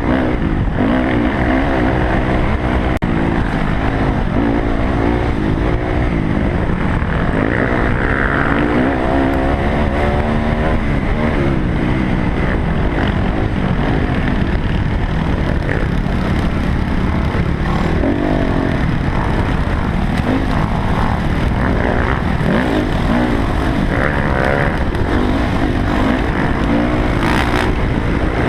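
Dirt bike engine being ridden hard, its pitch rising and falling as the rider works the throttle and gears, over a steady low rumble.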